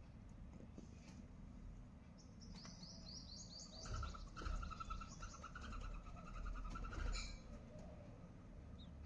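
Nestling birds chirping: a rapid run of high calls lasting about five seconds, stepping up in pitch at first and then settling into a fast trill, with low bumps underneath where it is loudest.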